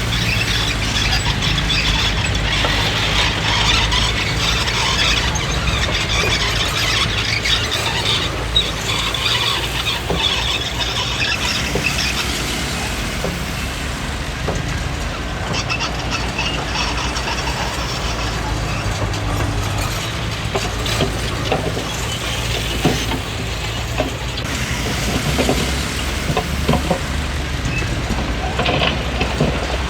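Komatsu D20P crawler bulldozer working: its diesel engine runs steadily under a high squeal from the steel tracks, strongest over the first dozen seconds, with scattered clanks later on.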